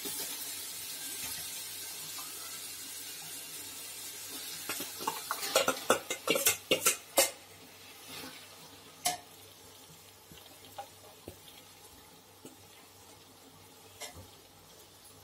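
Onion-tomato masala sizzling in a metal pot as marinated chicken is spooned in, with a quick run of metal spoon clinks and scrapes against the pot and bowl around the middle. A couple of single clinks follow over a quieter sizzle.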